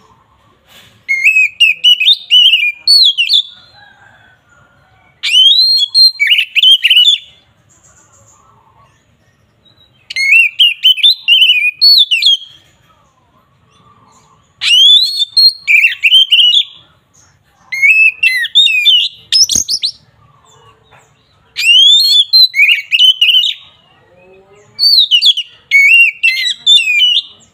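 Oriental magpie-robin (kacer) singing loudly in whistled phrases of fast, sweeping notes. There are seven phrases of about two seconds each, with short pauses between them. It is the full, open 'ngeplong' song style used to provoke rival magpie-robins.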